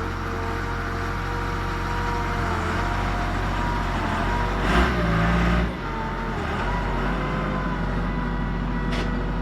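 Large farm tractor's engine running, its pitch shifting up and down a little. There is a brief louder surge about halfway through and a short click near the end.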